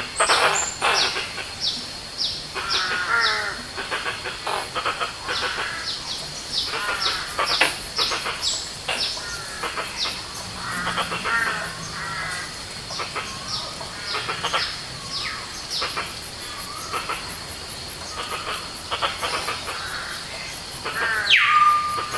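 Forest songbirds calling in a dense chorus: many quick whistled notes that each fall sharply in pitch, over a fast high-pitched ticking. Near the end two louder calls swoop down and then hold a steady whistle.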